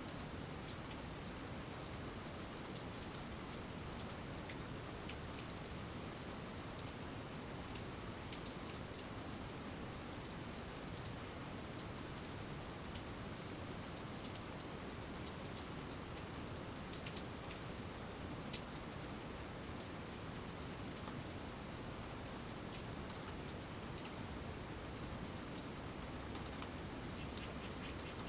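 Steady rain falling, with many single drops tapping close by.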